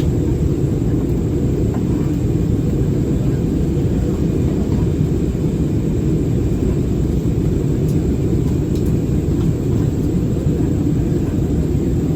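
Steady low rumble of an Airbus A320-216 in flight, its CFM56 engines and the airflow heard inside the passenger cabin on the way down to land.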